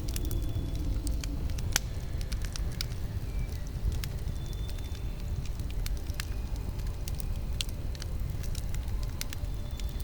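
Campfire burning with a steady low rush and irregular sharp crackles and pops of burning wood, a few louder pops standing out.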